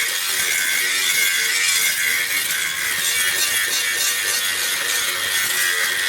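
Steel being ground steadily by a power grinder, a continuous high, gritty hiss, as the machete blade cut from tractor disc-plough steel is shaped.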